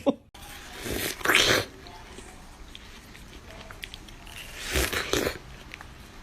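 A pet animal makes two short, breathy bursts of noise, one about a second in and another about five seconds in, over a faint steady background.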